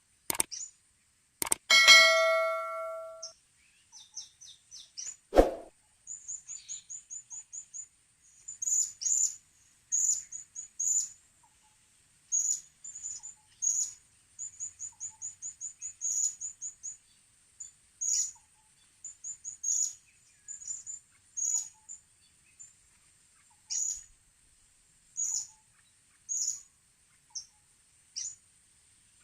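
High, thin chirps of blue-crowned hanging parrots (serindit), in quick runs of several notes and single calls, repeating throughout. Near the start a few sharp knocks and a metallic ding that rings for about a second and a half, and another knock about five seconds in.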